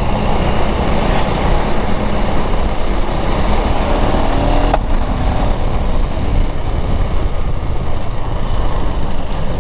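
KTM Duke 390's single-cylinder engine running on the move, with a steady rush of wind and road noise. About five seconds in, the engine note rises and breaks off sharply at a clutchless gear change made with the quick-shifter.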